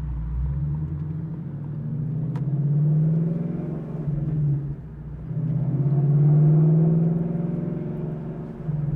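2018 Mustang GT's 5.0 Coyote V8 through a Corsa Extreme active-valve exhaust, heard from inside the car, swelling twice under light throttle, about three seconds in and again about six seconds in, easing off between.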